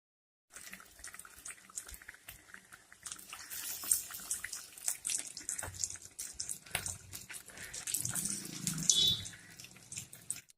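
Breaded mutton cutlets frying in hot oil: a sizzle full of small pops and crackles, starting about half a second in.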